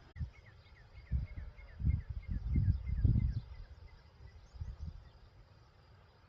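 Wind buffeting the microphone in gusts, heaviest a couple of seconds in, while a small bird gives a fading series of short chirps, about four a second, that die away after about four seconds.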